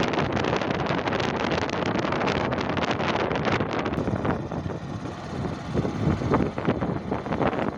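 Wind buffeting the microphone of a moving bike, with steady vehicle and road noise underneath; it eases a little about halfway through.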